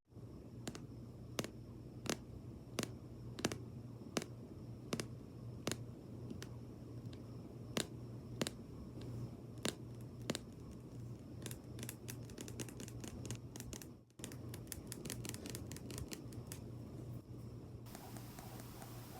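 Sharp tapping clicks on makeup items, evenly spaced at about one every two-thirds of a second, then quickening into fast runs of clicks in the second half, broken once by a brief dropout.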